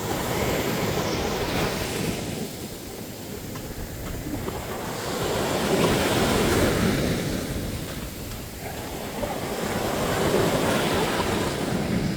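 Ocean waves breaking on a sandy beach, the surf rising and falling in slow swells, loudest about halfway through and again near the end, with some wind on the microphone.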